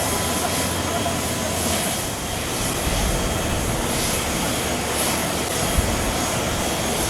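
Boeing 777-300's Pratt & Whitney PW4000-series turbofans running steadily, a broad jet rumble with a faint whine. There is one brief low thump about six seconds in.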